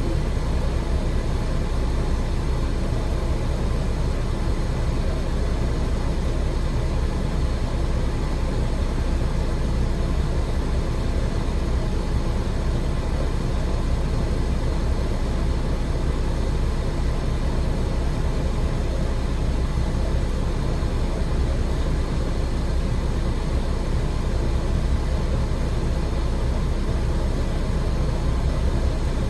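Steady running sound of an AN-8800 series diesel railcar heard from inside the train, with a constant low engine hum and the even rumble of wheels on rails.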